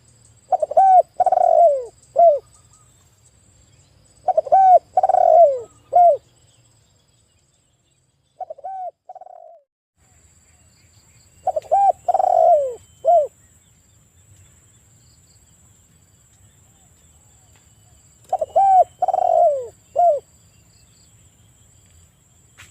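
Spotted dove (tekukur) cooing loudly in repeated phrases, each a run of three or four falling coos, four phrases spaced a few seconds apart with a shorter, softer pair between the second and third.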